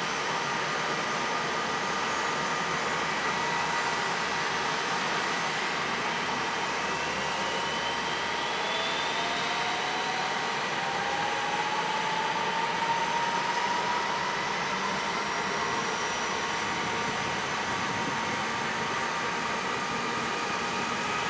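NH90 helicopter's turbine engine spooling up during startup: a steady hiss and high tones, with a whine that rises in pitch over several seconds from about a quarter of the way in.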